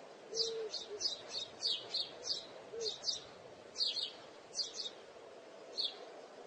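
Small birds chirping: short high chirps in quick irregular clusters, a few a second, with gaps between, over a faint steady background.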